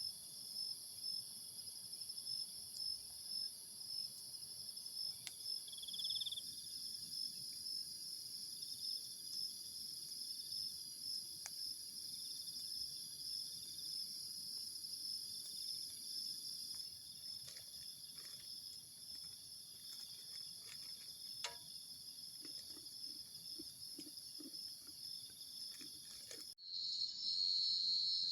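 Crickets chirring steadily in a dense night chorus, with scattered faint crackles from a campfire. Near the end the chorus breaks off for an instant and comes back louder.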